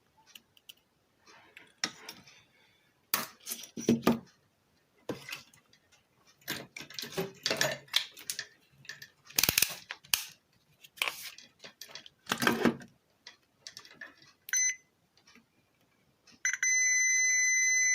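Irregular clicks and knocks of handling on a circuit board, then a short beep and, near the end, a multimeter's continuity buzzer sounding one steady, shrill beep: the meter is showing a short on the faulty channel of the stereo amplifier board.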